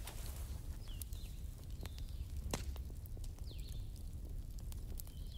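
Campfire crackling, with scattered sharp pops over a low steady rumble of the flames. A few short, high, falling chirps sound through it.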